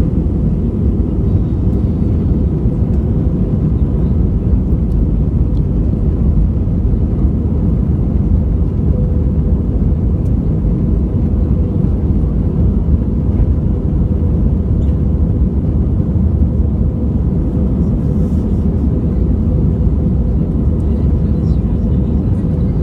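Steady low roar of an Airbus A320-214's CFM56 engines heard from inside the passenger cabin during departure, with a faint steady hum above it.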